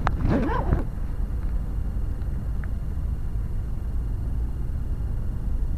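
A brief voice at the very start, then a Mitsubishi Lancer's engine idling close by as a steady low rumble.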